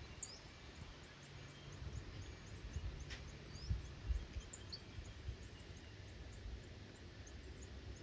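Quiet garden ambience with a few scattered short, high bird chirps from small birds, over a low rumble.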